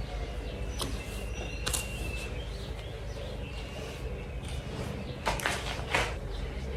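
Faint high bird chirps over a low steady room hum, with a few sharp clicks and rustles of handling, the loudest about five and six seconds in.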